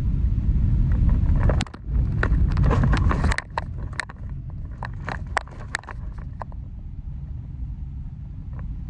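Kia Morning small hatchback on the move: a steady low road and engine rumble that drops in level after about three seconds, with a run of sharp clicks and rattles in the middle.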